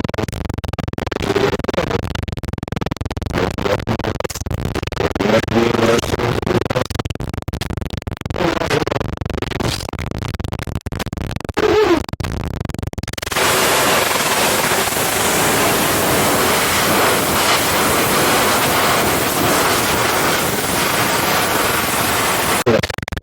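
Scratchy, crackling noise with faint snatches of voices, then about thirteen seconds in a loud, steady TV static hiss sets in. The hiss cuts off just before the end.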